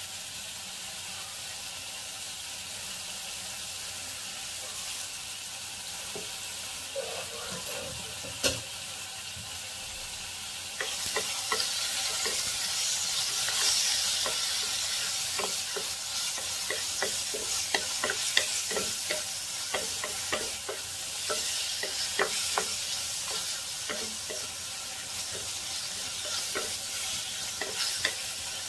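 Ginger, garlic, dried chillies and whole spices sizzling in a clay pot. From about eleven seconds in, a wooden spatula stirs them, and the sizzle grows louder with frequent scraping clicks of the spatula against the pot.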